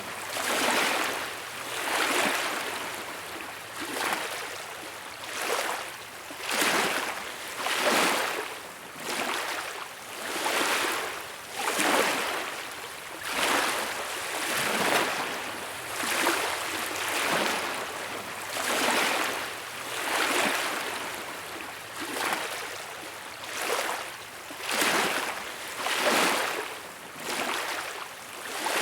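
Small beach waves washing in and out, a hissing swell that rises and falls about every one and a half seconds.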